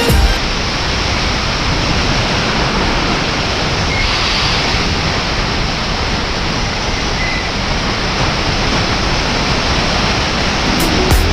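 Steady rush of wind and road noise on the microphone of a moving motorcycle, an even hiss with no clear engine note.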